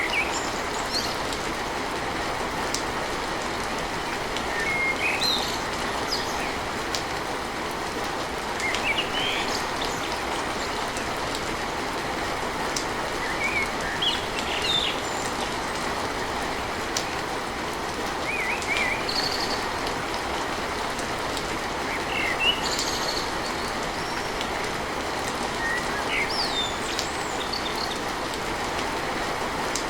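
Steady heavy rain on a tin roof, with short bird chirps every few seconds.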